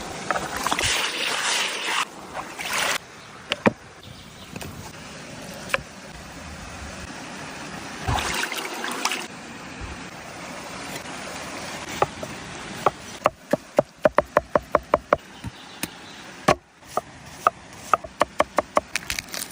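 Knife chopping on a cutting board: a quick run of sharp knocks about four a second starting about thirteen seconds in, then a few more spaced strokes, over a steady outdoor hiss.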